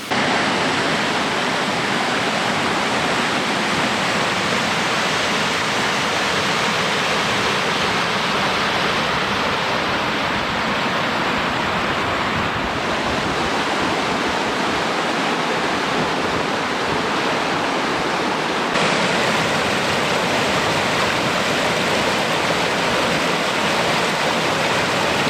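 River rapids: whitewater rushing loudly and steadily through a narrow rock gorge. The rush shifts slightly in tone twice, about halfway and about three-quarters through.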